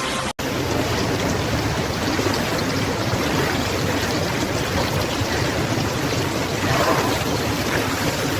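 Rushing river water, a steady, even flow that drops out for an instant just after the start.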